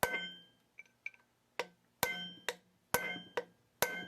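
Hammer striking a brass punch against a threaded part of a hydraulic cylinder, about seven sharp ringing metal blows, mostly spaced about half a second apart, trying to turn the part loose.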